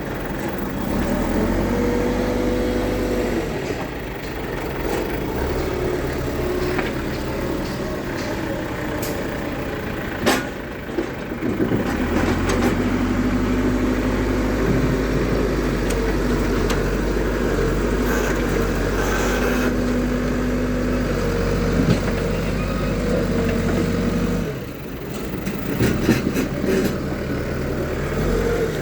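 JCB 3DX backhoe loader's diesel engine running while loading, revving up under hydraulic load and dropping back several times, with one sharp knock about ten seconds in.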